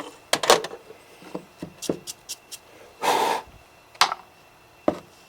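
Tapped PVC cylinder and tools handled on a bench: a few sharp clicks and knocks, with a short rush of noise about three seconds in.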